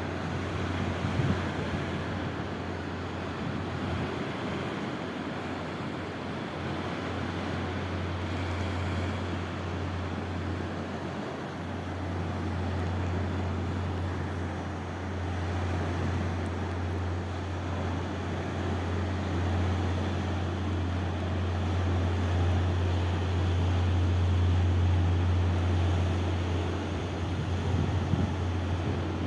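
Steady low hum under a continuous wash of outdoor noise, growing somewhat louder in the second half.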